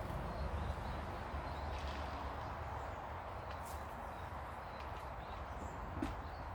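Faint, short bird chirps over a steady low background rumble, with a few sharp clicks.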